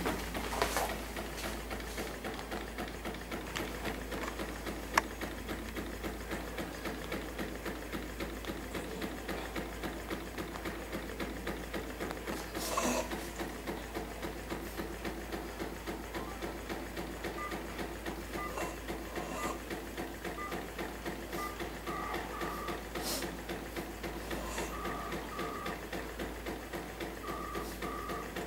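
Homemade gamma-type test tube Stirling engine running steadily, its displacer and crank making an even mechanical clatter at about three beats a second. A sharp click comes about five seconds in, and a louder knock or rustle near the middle.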